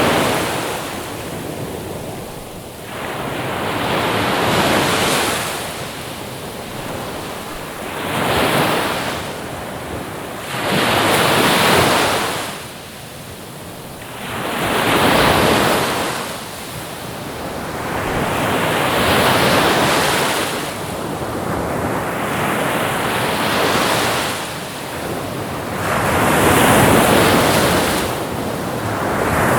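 Ocean waves breaking on a shore in repeated surges, each swelling up and dying away, about one every three to four seconds.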